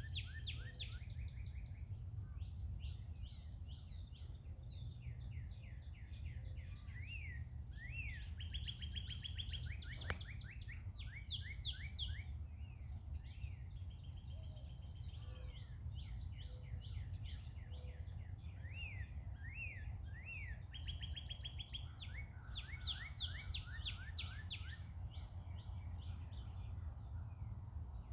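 Several songbirds singing and chirping at once in a dawn chorus, with rapid trills, repeated chirps and rising-and-falling notes overlapping throughout, over a steady low rumble.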